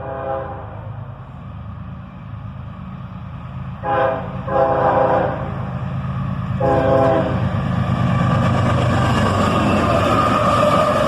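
Multi-chime air horn of a CSX GE ES44DC diesel locomotive sounded in a playful sequence: one blast ends about half a second in, then a short blast and a longer one together around four seconds, and another about a second later. From about eight seconds in, the approaching train's locomotive and wheel noise grows loud and steady.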